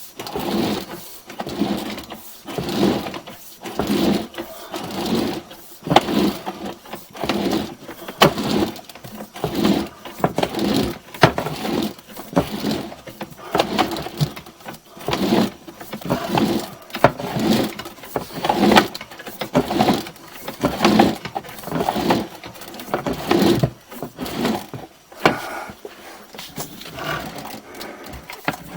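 Sewer inspection camera's push cable being worked through the main line, rattling and scraping in a steady rhythm of about one stroke a second with sharp clicks.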